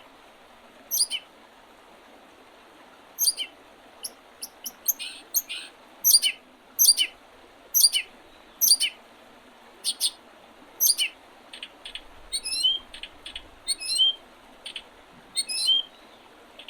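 Wild songbirds in spring chirping and singing: short, sharp notes that sweep downward, roughly one a second, with a few hooked, rising calls near the end. A steady rush of river water runs underneath.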